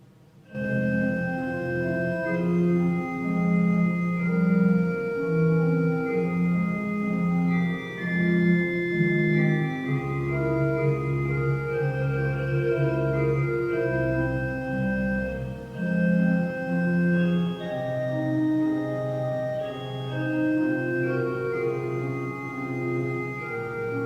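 Organ music starting about half a second in: slow, sustained chords, with deep bass notes joining for a few seconds about ten seconds in.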